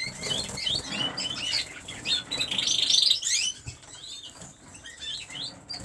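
Caged dimorphic canaries chirping with many short, high call notes, with a brief rapid trill about two and a half seconds in, and wings fluttering in the cages.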